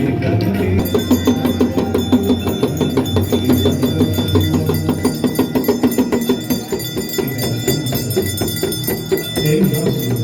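Aarti bells ringing rapidly and continuously over devotional music, the ringing starting about a second in.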